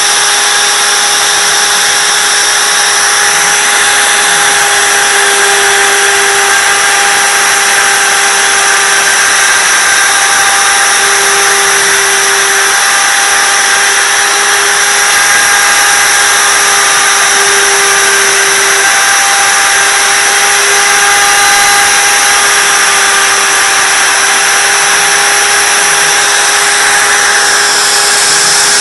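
Spindle of a 3D CNC router running steadily while milling wood: a constant high whine over dense cutting hiss, with small changes in strength as the cut goes on.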